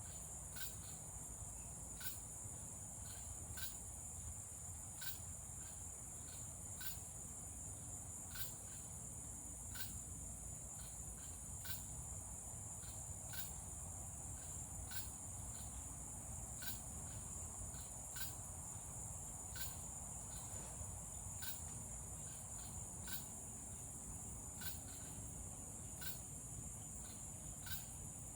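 Evening insect chorus of cicadas and crickets: a steady high-pitched drone, with a sharp tick repeating about every three-quarters of a second.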